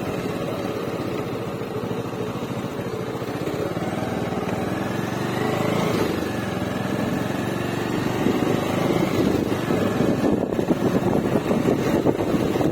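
Bajaj Avenger Cruise motorcycle's single-cylinder engine running steadily, getting somewhat louder and choppier in the second half.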